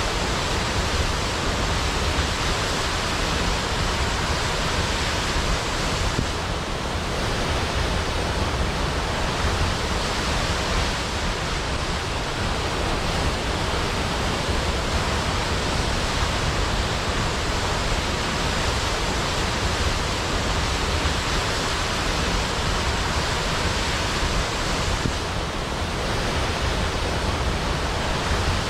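Large waterfall crashing down into a pool, a steady dense rush of falling water with no pauses.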